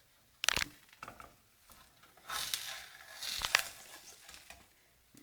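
Spatula knocking and scraping in a frying pan while a fried egg is flipped: a sharp knock about half a second in, then about a second and a half of scraping and clatter with another sharp knock near the end of it.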